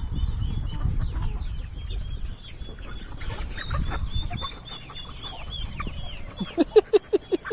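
A flock of chickens clucking and chirping, with many short high falling calls and, near the end, a quick run of about six loud low clucks.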